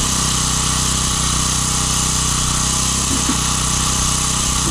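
A combustion engine running steadily at a constant speed, with an even, unchanging drone.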